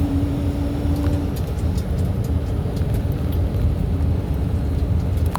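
Steady low drone of a semi truck, the engine and road noise running evenly, with a brief steady hum in the first second or so.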